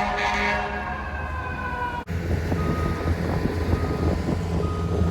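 An emergency vehicle's siren, heard as a stack of tones slowly winding down in pitch. About two seconds in the sound cuts to a heavy vehicle's low engine rumble with short beeps repeating now and then.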